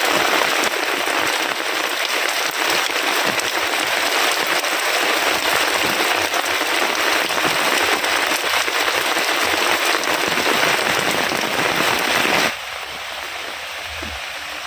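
Heavy rain pouring down, a dense, crackling hiss of drops hitting surfaces. About twelve seconds in, it cuts abruptly to softer, quieter rain.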